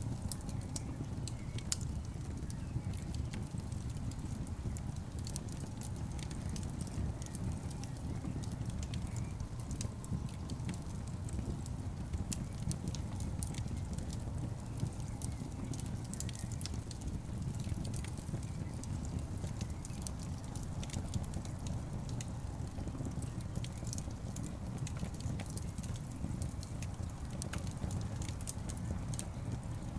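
Wood logs burning in a fireplace: a steady low rush of flame with frequent, irregular sharp crackles and pops.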